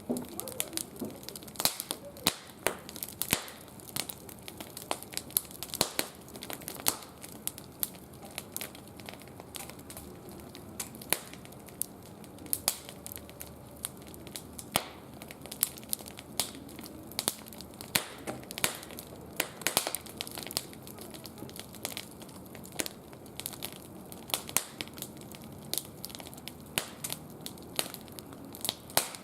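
Wood fire crackling, with frequent sharp pops at irregular intervals.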